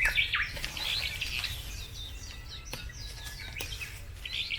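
Songbirds chirping: many short, quick, downward-sliding notes overlapping throughout, with a few faint sharp clicks among them.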